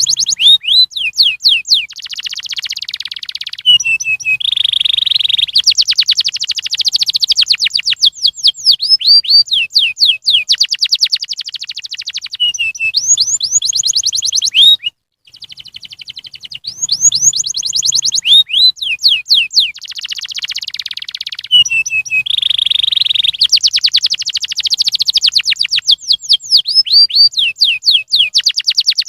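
Domestic canary singing a long song of fast trills, repeated whistled sweeps and buzzy rolls. After a short break about halfway through, the same song starts over. It is played as a lure song (pancingan) to prompt other canaries to sing.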